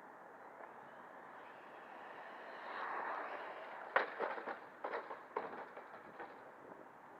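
Electric RC car (FTX Stinger) running on tarmac, the whir of its motor and tyres swelling as it comes close about three seconds in, followed by a series of sharp knocks and clatters from about four to six and a half seconds.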